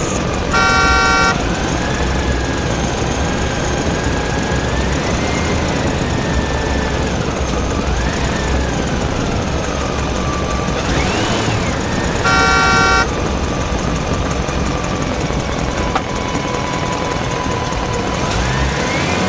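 Motor vehicle engine running with its pitch rising and falling, and two short horn honks, one near the start and one about twelve seconds later.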